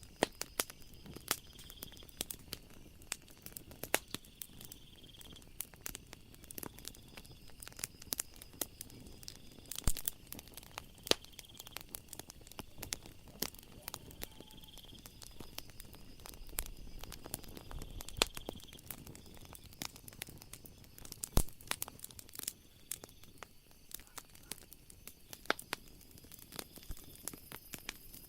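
Wood fire crackling, with frequent irregular pops and snaps of burning logs over a soft hiss. Behind it a faint, steady high-pitched trill of night insects swells and fades.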